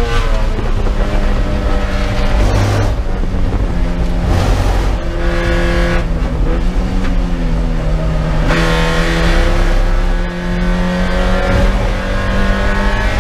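A Spec Miata's four-cylinder engine heard from inside the race car's cockpit. It slows hard from high speed for a corner, then rises steadily in pitch as it accelerates out, starting about two-thirds of the way through.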